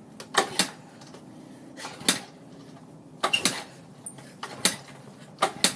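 Kickstarter of a 110 cc dirt bike being kicked over again and again, several sharp metallic clanks about a second apart. The engine never catches: it won't start.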